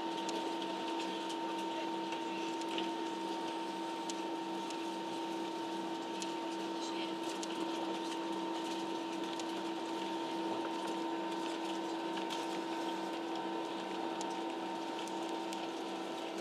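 Cabin noise inside a Ryanair Boeing 737 on the ground before takeoff: a steady hum and whine from the engines and air systems, with a lower tone pulsing two to three times a second.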